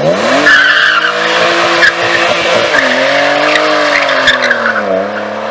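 A car engine revs sharply up at the start and is held at high revs with tires squealing, typical of wheelspin on a hard launch. The revs dip briefly twice and ease off slightly near the end.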